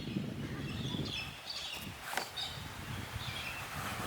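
Birds chirping faintly in short, scattered calls over a low, steady background rumble.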